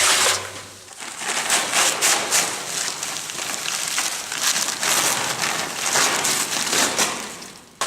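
Dry concrete mix and water being poured into a concrete mixer's drum: a dense, gritty hiss that fades out near the end.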